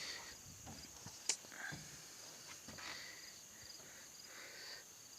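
Insects chirping steadily in a faint, high, pulsing drone, with one sharp click about a second in.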